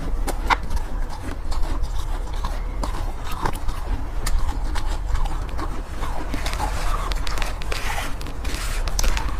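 Close-miked crunching and chewing of soft, powdery ice, with irregular crisp crunches and a denser crackle about two-thirds of the way through.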